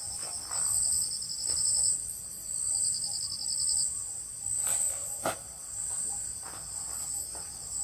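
Crickets and other night insects chirping, a steady pulsing high-pitched buzz with a faster trill joining in twice during the first few seconds. Two sharp clicks about five seconds in.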